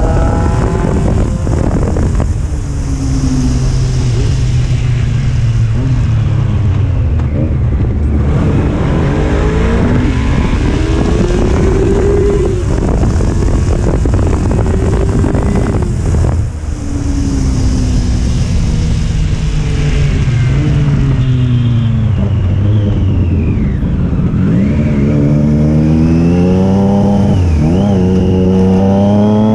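Triumph Street Triple's inline-three engine and exhaust under way, the pitch climbing repeatedly as it is revved through the gears and falling back as the throttle closes, over steady wind rush.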